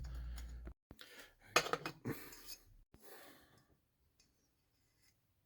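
A few light clicks of small metal parts as bolts are fitted to a motorcycle engine's crankcase, with a soft breath, then near silence.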